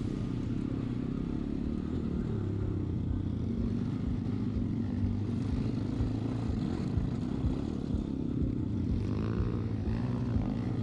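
Vehicle engine running at a fairly steady, low pace on an off-road drive, its pitch wavering slightly up and down.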